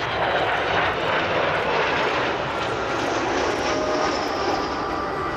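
Avro Vulcan bomber's four Rolls-Royce Olympus turbojets running in a flypast: a steady loud jet rush, with a steady whistling tone coming in near the end.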